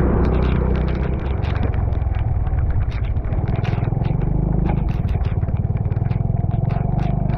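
Motorcycle engine running under way, with a fast even pulsing from its firing, and scattered sharp ticks and clatter over it.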